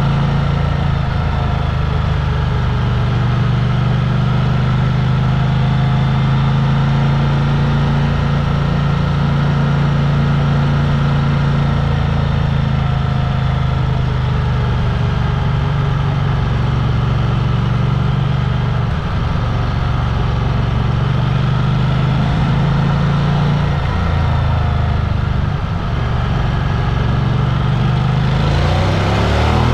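Vehicle engine running steadily, its pitch climbing near the end as it revs up.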